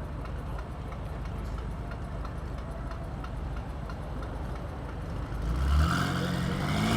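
A steady low rumble of wind and road noise while riding. About five and a half seconds in, a BMW car engine accelerates with a rising pitch and grows louder.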